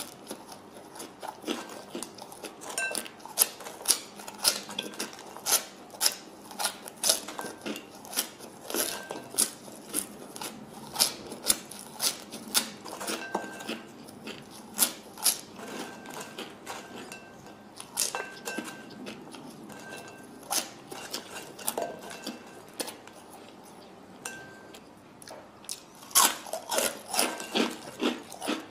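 A person chewing fries close to the microphone: a steady run of sharp mouth clicks and smacks, about two a second, quickening near the end.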